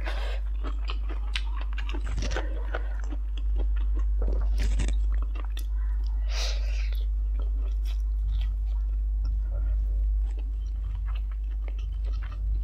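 Close-miked eating sounds: biting and chewing a mouthful of stir-fried instant noodles and papaya salad, with crisp crunching and many sharp wet mouth clicks, over a steady low hum.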